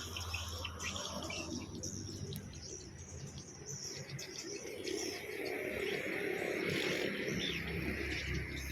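Swiftlets chirping and twittering, many short high calls overlapping, growing into a denser twitter about halfway through, over a low steady hum.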